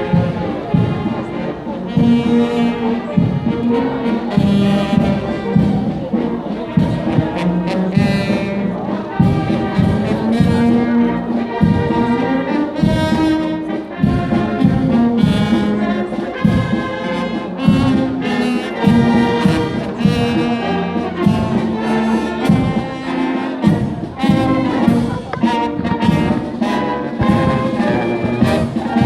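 Brass band playing a march: trombones and trumpets holding sustained notes over a steady drum beat.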